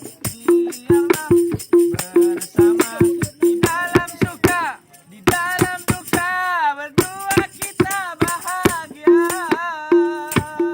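Hadrah music: frame drums and jingles beat a fast, dense rhythm, with a melodic line sung over it that rises and falls in the middle and again near the end.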